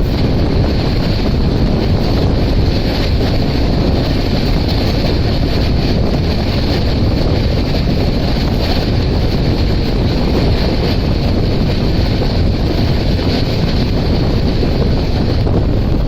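Express passenger train running at speed: a steady, loud rumble of the moving coach with wind buffeting the microphone.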